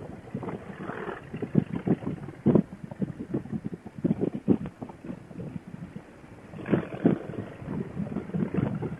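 Wind buffeting a motorcyclist's helmet intercom microphone at riding speed: a rushing noise broken by irregular gusty thumps.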